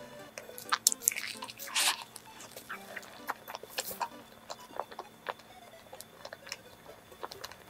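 Close-miked mouth sounds of a person chewing soft cream-filled bread: scattered wet smacks and clicks, with a short rustle about one and a half to two seconds in.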